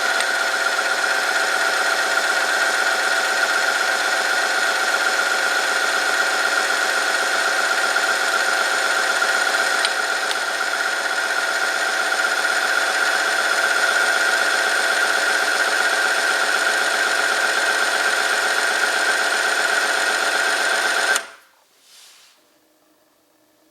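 Oil-film friction test machine running: a motor-driven steel ring rubs on a metal test sample lubricated with Liqui Moly Street Race 10W-50, making a loud steady high whine with grinding. It cuts off abruptly about 21 seconds in, where the machine stops, which in this test marks the end of a run under added weights.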